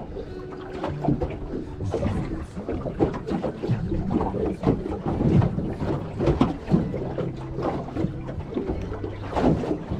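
Small boat on choppy water: water slapping against the hull in irregular knocks, wind on the microphone, and a low steady hum underneath.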